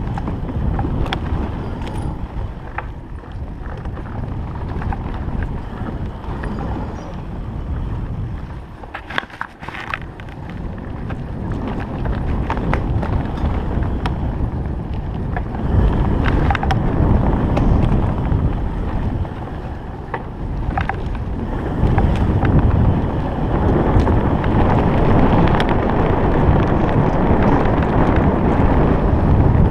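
Wind rumbling on the microphone and scattered clicks and knocks as a Stayer Enduro electric bike rides over a rough forest road. The rumble dips briefly about nine seconds in and is stronger in the second half.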